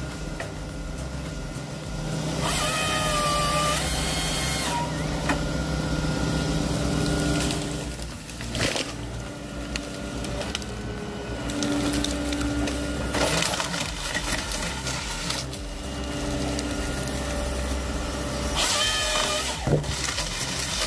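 Timber harvester with a Nisula 555C head at work: its engine and hydraulics run steadily, the pitch shifting a few times, with brief harsh noises about 9, 13 and 15 seconds in.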